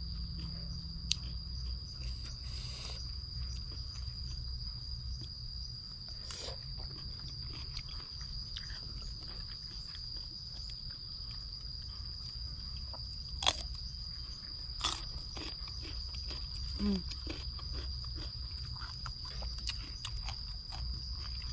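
Someone eating a crunchy salad, with a few sharp crunches, over a steady single-pitched high insect drone and a low rumble.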